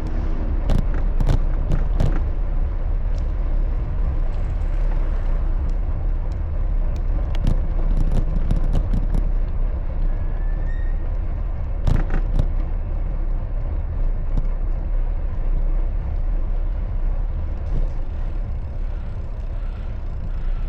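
Steady low rumble of road and wind noise while riding a bicycle in traffic, with scattered sharp clicks and rattles, a cluster about a second in and another around twelve seconds in.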